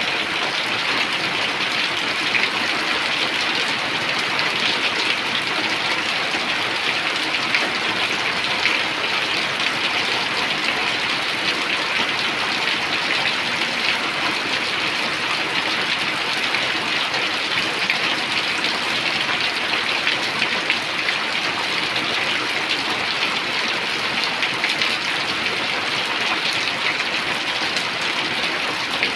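Steady rain falling: an even wash of countless fine drop patters that neither builds nor eases.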